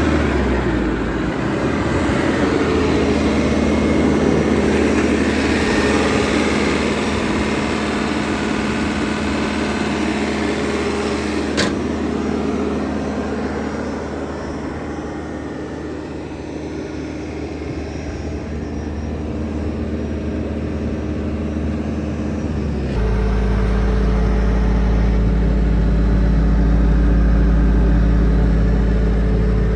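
Bobcat S590 skid steer's 2.4-litre four-cylinder turbo diesel running steadily, with a single sharp knock about a third of the way in. About two-thirds through, the sound changes suddenly and its low rumble becomes much louder.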